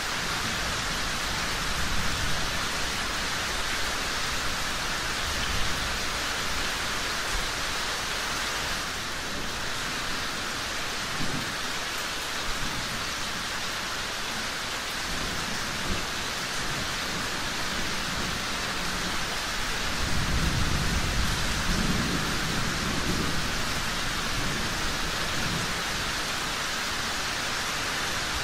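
Steady heavy rain with low rumbles of distant thunder, the strongest rolling in about two-thirds of the way through. A few sharp pops stand out above the rain.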